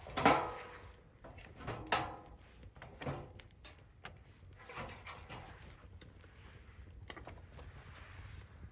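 A few separate knocks and clatters, the first and loudest about a second in, then others near two, three and five seconds, with faint clicks after.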